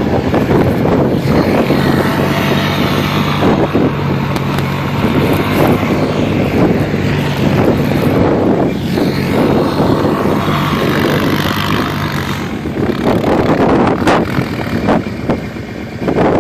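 Quad (ATV) engine running, holding a steady note for most of the time before it fades out near the end, with wind noise on the microphone.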